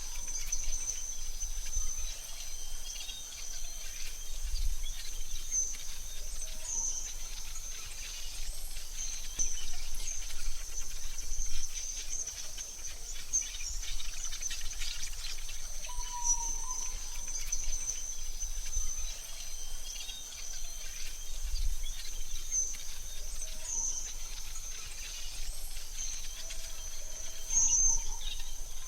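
AI-generated forest ambience: a steady high insect trill like crickets over a soft noise bed, with a few short bird chirps now and then.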